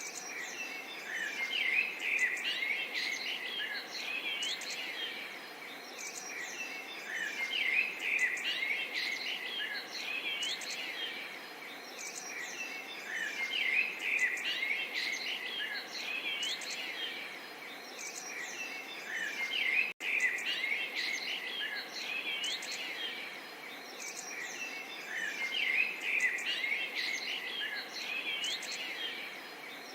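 Many small songbirds chirping and singing at once, short overlapping twittering calls and rising and falling notes, over a faint steady rush of lightly babbling water. The sound cuts out for an instant about two-thirds of the way through.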